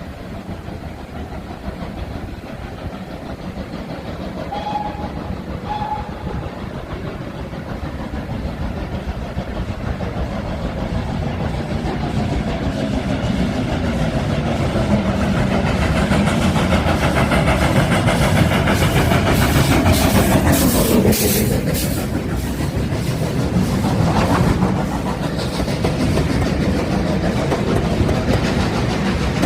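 A train approaching and passing on a heritage railway line, its wheels clattering over the rail joints, growing steadily louder to a peak about twenty seconds in, where the pitch falls as it goes by. Two short faint tones sound about five seconds in.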